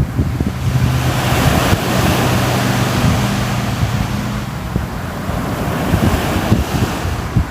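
Sea waves washing onto the shore, a surge swelling and easing off over a few seconds, with wind buffeting the microphone. A low steady hum runs beneath for the first few seconds.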